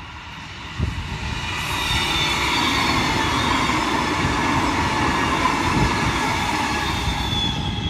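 Queensland Rail electric suburban train passing close by, its wheels rumbling on the rails with a high whine of several steady tones over the top. It grows loud about a second in and holds until near the end.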